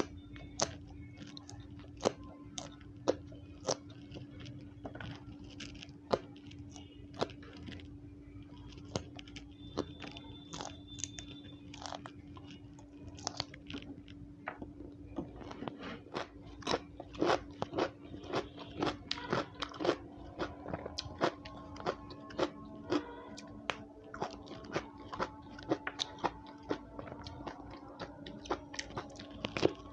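Close-up crunching and chewing of raw yardlong beans: crisp snaps and crunches, spaced out at first and coming thick and fast in the second half, over a steady low hum.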